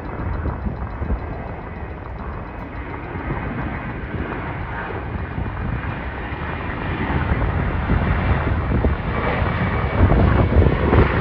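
Jet airliner departing, its engines a steady roar that grows steadily louder, swelling further near the end.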